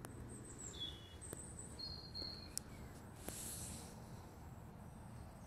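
Faint bird chirps: several short, high whistled notes in the first couple of seconds over a low, steady outdoor background rumble.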